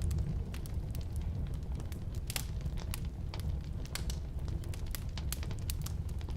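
Firewood burning in a fireplace stove: irregular sharp crackles and pops over a steady low rumble of the flames.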